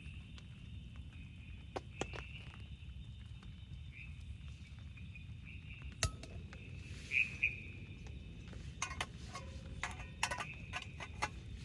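Scattered light clicks and clinks, a sharp one about six seconds in and a quick cluster near the end, over a steady high-pitched hum and a low rumble.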